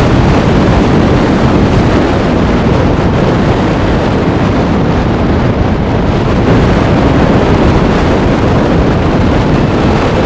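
Blizzard wind buffeting the microphone: a loud, steady rush of noise with no break.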